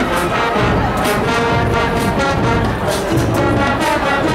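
High school marching band playing: brass section sounding sustained chords over a steady drum beat.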